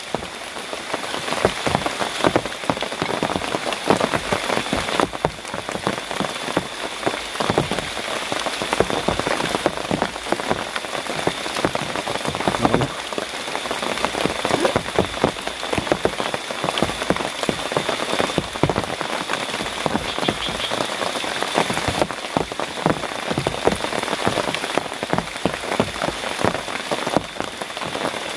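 Heavy rain falling steadily, with dense close drops pattering on surfaces and a thin, steady high-pitched note running underneath.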